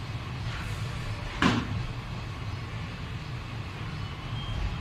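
ICF passenger coaches of an Indian Railways express train rolling slowly past, a steady low rumble with a loud sharp clank about one and a half seconds in and a fainter one shortly before it.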